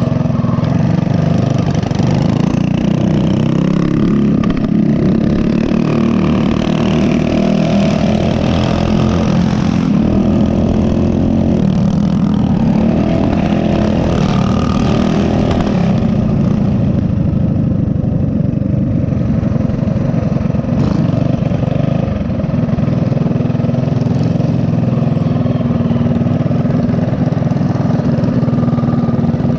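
Mini bike's small single-cylinder four-stroke engine running under way, its pitch rising and falling with the throttle through the middle of the stretch.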